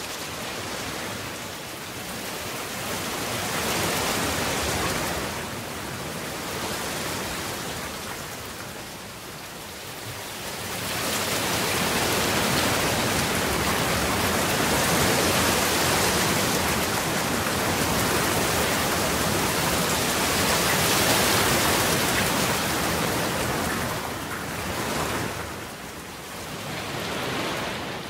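Rain falling steadily in an even hiss that swells and eases, heaviest through the middle stretch.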